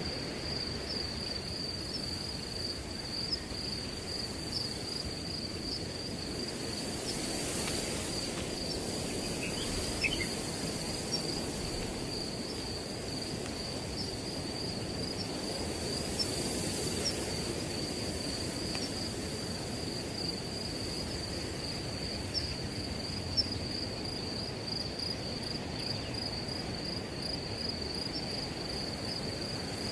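Crickets trilling steadily at a high pitch over a soft rush of wind through grass, with the wind swelling briefly about 8 and 17 seconds in.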